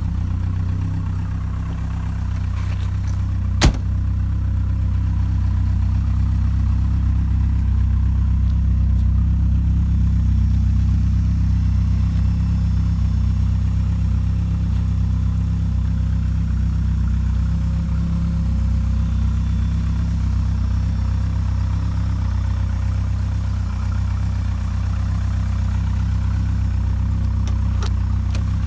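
1987 Porsche 944 Turbo's turbocharged four-cylinder engine idling steadily after a cold start, with one sharp click about four seconds in. The idle sits a little off, which the owner's tuner puts down to the car needing an idle valve.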